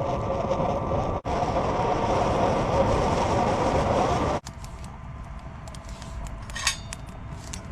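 Small electric blower fan, just plugged in, running steadily with a hum. About four seconds in it gives way suddenly to a quieter steady hum, with a few light clinks near the end.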